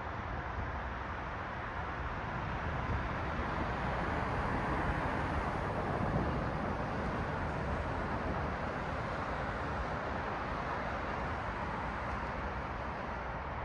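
Road traffic: a car passing, its tyre and engine noise swelling to a peak about five or six seconds in and slowly fading, over a steady traffic hum.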